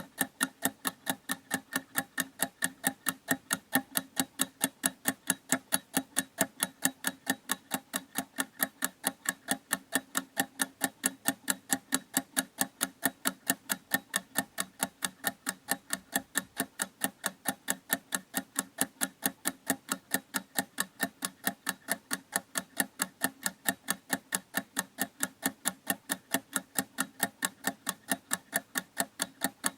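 Clock ticking steadily, with quick, even, sharp ticks, roughly three a second.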